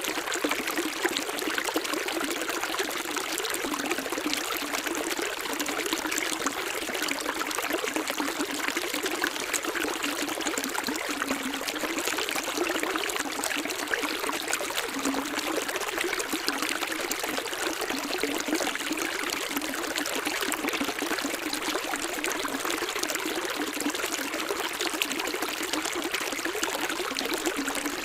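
Water running steadily, a dense even rush of many small splashes with no break or change.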